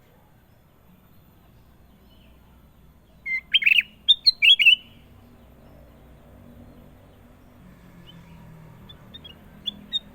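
A kutilang emas bulbul singing: a loud phrase of quick, short chirping notes about three seconds in, lasting about a second and a half, then a few faint notes near the end.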